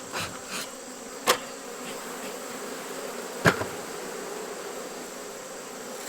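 Honeybees buzzing steadily around an open hive during an inspection. A few sharp knocks and clicks cut in, the two loudest about a second in and past the middle.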